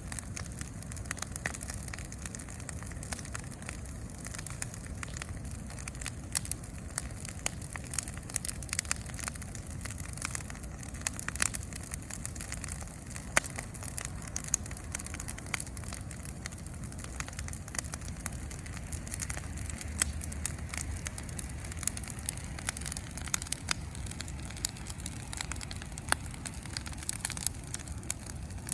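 Bonfire burning, crackling with frequent irregular sharp pops and snaps over a low steady rumble; one pop about halfway through is louder than the rest.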